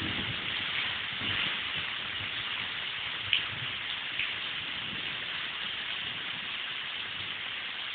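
Heavy rain falling steadily, a dense even hiss of drops on the yard and foliage, with one sharp tap about a third of the way in.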